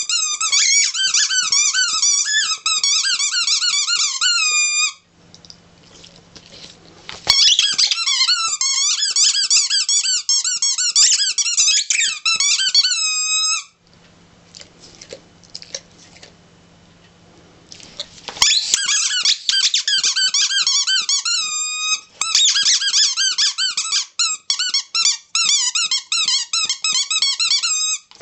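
Squeaky toy ball squeaking over and over as a dog chews on it: rapid, wavering squeaks in three long runs with short pauses between.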